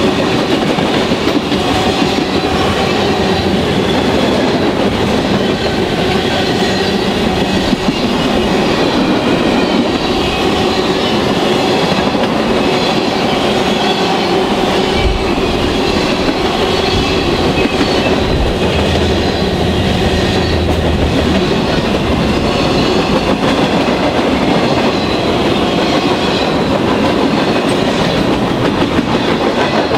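Norfolk Southern freight train's tank cars and flatcars rolling past close by at speed: a steady loud rumble of steel wheels, with clickety-clack over the rail joints.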